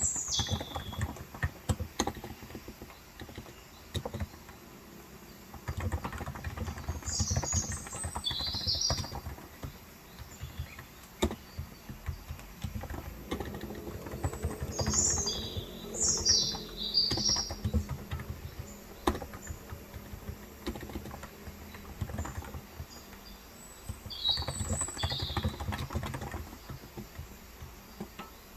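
Typing in bursts on a Cox Endeavor electrostatic capacitive tenkeyless keyboard with 35 g keys, a rapid run of soft key clicks with short pauses between runs. Birds chirp in short high calls a few times over the typing.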